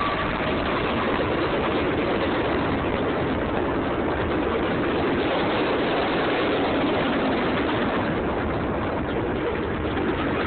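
Train passing, a steady, loud rumble and rattle of its cars rolling on the rails. The last of the train horn dies away right at the start.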